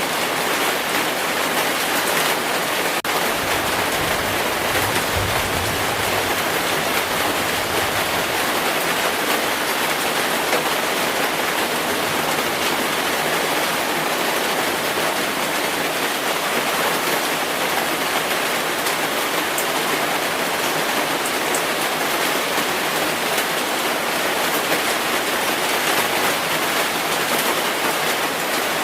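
Heavy rain falling steadily in a dense, even hiss, with a low rumble of distant thunder from about four to eight seconds in.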